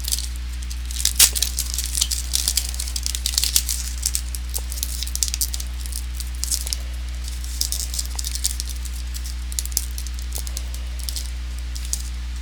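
Trading cards being handled and flipped through: light, scratchy flicks and rustles of card stock, busiest in the first few seconds and thinning out after. A steady low electrical hum runs underneath.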